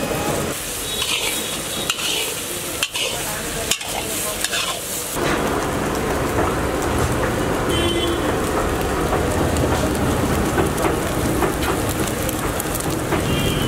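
Eggs frying and sizzling in a large metal kadai while a steel spatula stirs and scrapes the scrambled egg against the pan.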